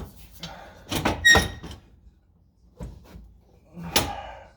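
Metal clanks and scrapes as the catback exhaust section is wrestled around under the car: a ringing clank about a second in, a dull knock near three seconds, and a sharp clank with a short scrape near the end.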